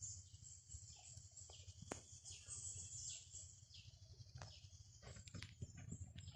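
Faint bird chirping: a quick run of high calls that each drop in pitch, over a low rumble of wind.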